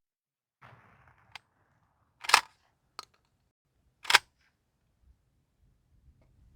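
A 12-gauge shotgun loaded with birdshot firing twice, two loud blasts nearly two seconds apart, with a few smaller clicks and a short rustle between the shots.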